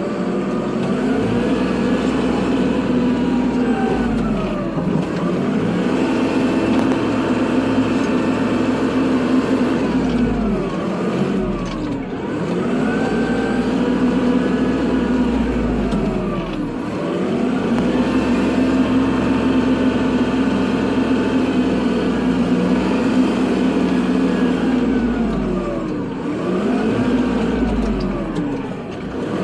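Kubota tractor's diesel engine working while plowing snow, its pitch repeatedly climbing, holding and dropping back every few seconds.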